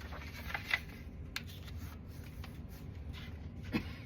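Paper pages rustling and sliding against each other as they are handled and stacked, with a few light taps.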